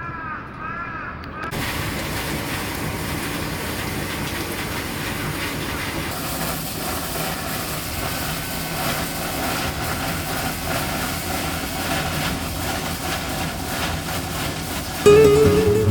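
Hot spring steam vent hissing steadily, its hiss growing brighter about six seconds in.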